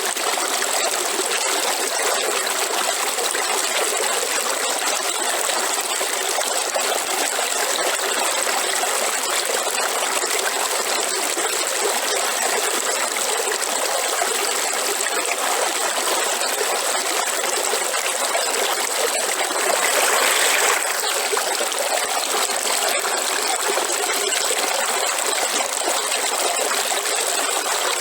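River water flowing: a steady rush and trickle, with a brief louder surge about two-thirds of the way through.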